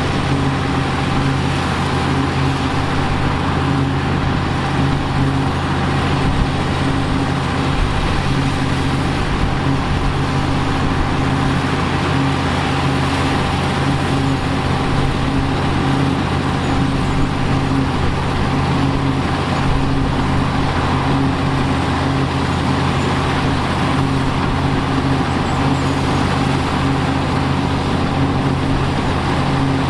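Engine of vintage harvest machinery running steadily at a constant, unchanging speed.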